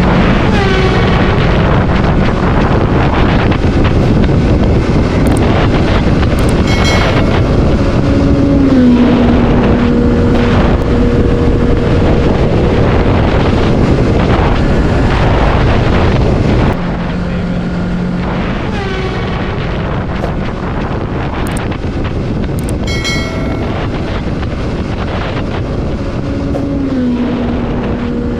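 Heavy motorcycle running at speed, with wind rushing over the microphone and the engine note dropping in pitch as the bike passes, about 8 s in. About 17 s in the sound cuts and the pass plays again, a little quieter, with the same drop in pitch near the end.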